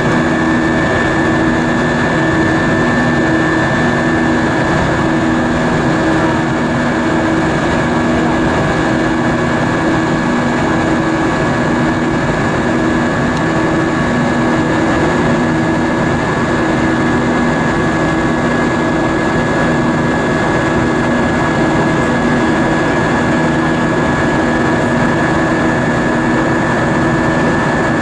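Steady cabin drone of an Airbus A320-232 with its IAE V2500 jet engines running, heard from inside the cabin: an even rush of engine and airflow noise with a thin steady whine and low hum tones that pulse in a slow, regular beat.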